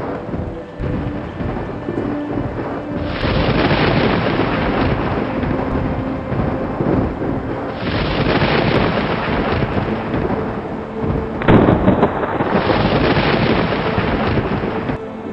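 Thunderstorm: rolling thunder over heavy rain, with the rain noise swelling a few seconds in and a sharp, loud thunderclap about three quarters of the way through.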